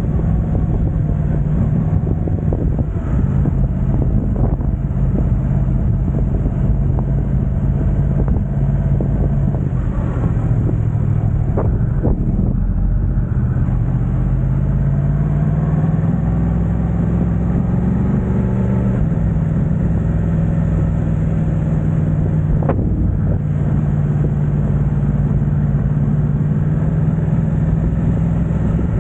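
Yamaha YZF-R1's crossplane-crank inline-four running through an Akrapovic exhaust at a fairly steady engine speed. The pitch climbs slowly through the middle, then drops suddenly about two-thirds of the way through and holds steady again.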